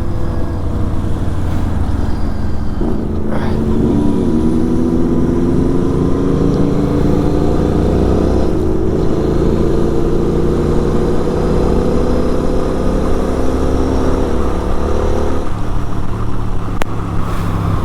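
Kawasaki Z900 inline-four with a full-system exhaust riding on the road, with wind rumble on the microphone. About three seconds in, the engine note starts climbing slowly and steadily for some twelve seconds as the bike pulls through a gear, then drops away.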